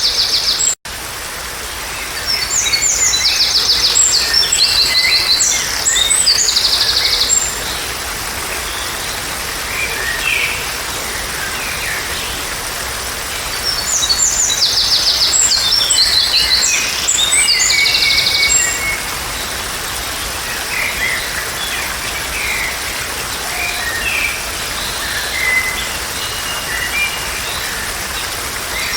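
Songbirds singing: two long phrases of fast, high chirps and trills, with scattered shorter calls between them, over a steady background hiss. The sound drops out briefly about a second in.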